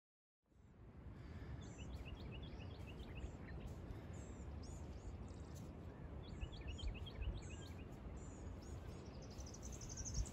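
Birds calling over a steady low rumble: a run of quick chirps comes twice, higher calls are scattered throughout, and a fast run of high notes comes near the end.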